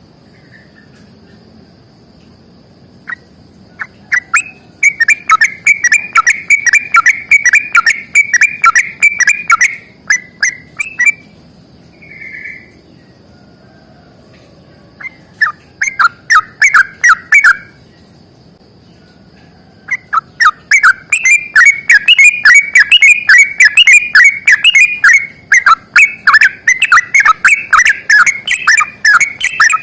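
Yellow-vented bulbul (trucukan) singing its long, rapid rolling 'ropel' song in loud bursts of quick repeated notes. There are pauses between the phrases, and from about two-thirds of the way through it sings almost without a break. The loud notes sound distorted.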